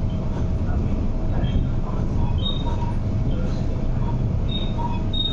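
Running noise of an MTR East Rail Line MLR electric multiple unit (Metro-Cammell, 1980s), heard from inside the car while moving: a steady low rumble of wheels on track, with short faint high tones coming and going.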